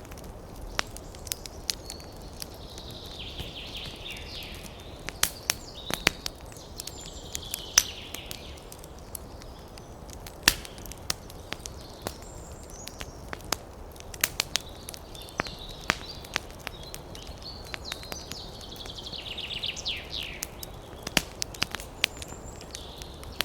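Wood fire crackling in a fireplace: irregular sharp pops and snaps throughout, some much louder than others, with several stretches of hissing from the burning wood.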